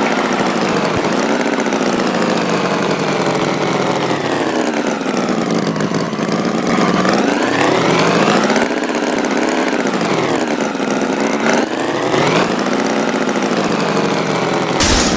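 Tractor engine running and revving, its pitch sweeping slowly down and back up several times.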